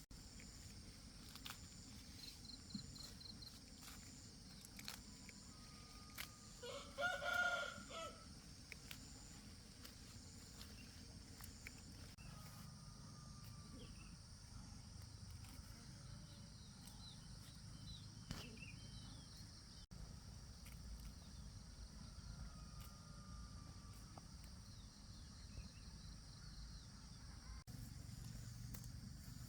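A rooster crows once, about seven seconds in, a single call lasting about a second. Around it is a faint steady hiss with scattered faint clicks and small bird chirps.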